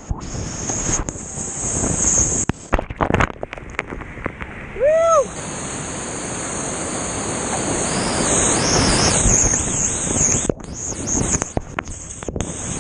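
Rushing whitewater of a river rapid, growing louder toward the middle, with wind buffeting the microphone and scattered knocks. A short pitched call rises and falls about five seconds in.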